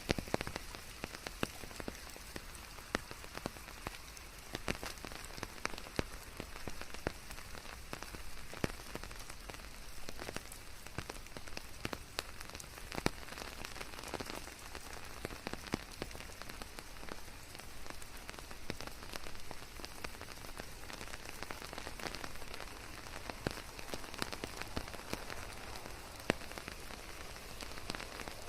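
Steady rain falling on leaves and surfaces, a continuous hiss scattered with many sharp individual drop hits, blended with a white-noise bed.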